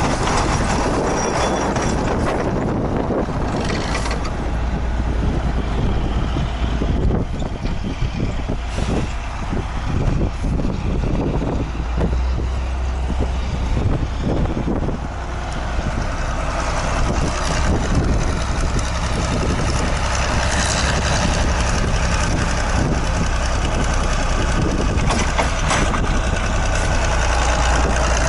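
Heavy wheeled tractor's diesel engine running steadily while clearing snow, with a run of irregular knocks and clunks partway through.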